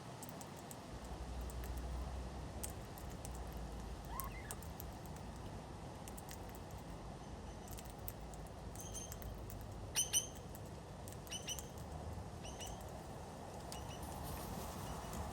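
Short, high bird chirps, several in quick succession from about nine seconds in, the loudest a double call about ten seconds in, with faint light clicks scattered through.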